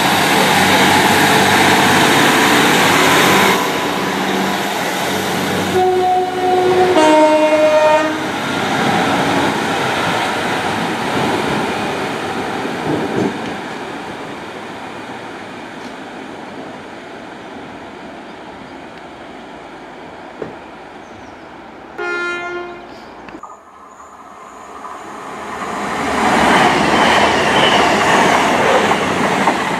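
A Class 150 diesel multiple unit running past close by, then a train horn sounding two notes, high then low, about six seconds in, and another short horn blast after about twenty-two seconds. Near the end a CrossCountry Voyager diesel unit passes at speed, loud and rising.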